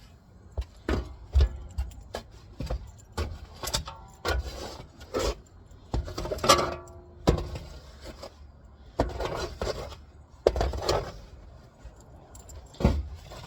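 A series of irregular scrapes and knocks, about a dozen and more separate strokes with short gaps between them, from work in a truck bed full of sawdust.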